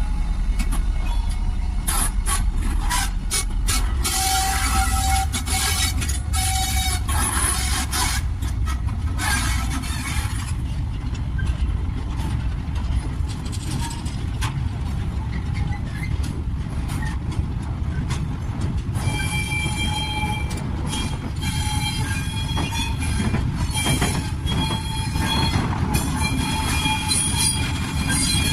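Gypsum freight train's wagon wheels squealing and screeching on the rails as the train rolls slowly, over a steady low rumble. The first few seconds are full of sharp clicks and scraping. The high squeals come and go, strongest in the last third.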